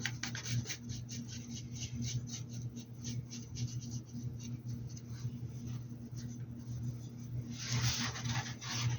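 Paintbrush scratching and dabbing paint onto a hat in short, quick strokes, several a second, with one longer, louder stroke near the end. A steady low hum runs underneath.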